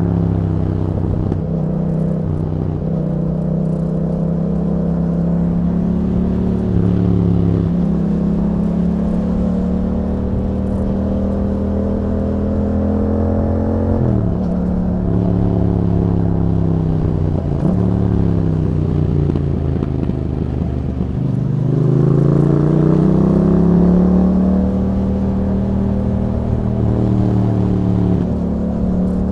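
2021 Yamaha MT-07's 689 cc parallel-twin engine running through an Akrapovic exhaust with a YAHOM dB killer, under way. The engine note climbs under throttle and drops suddenly at gear changes. About two-thirds in it falls away on a long deceleration, then rises again as the bike accelerates.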